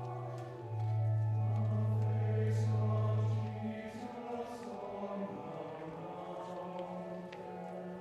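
Church choir singing a slow anthem over accompaniment that holds long, steady low bass notes, the bass changing about a second in and again near the middle.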